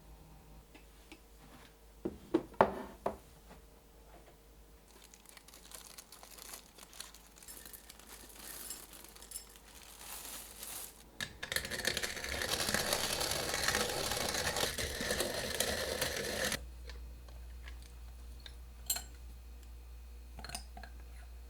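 Household handling sounds: a few sharp knocks, then rustling that grows into about five seconds of loud, steady noise that stops suddenly, followed by a few light clicks.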